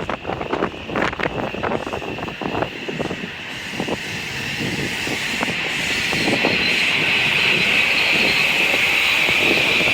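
Metro-North train running into the station with a steady high-pitched squeal that grows louder from about four seconds in. Gusty wind buffets the microphone in the first few seconds.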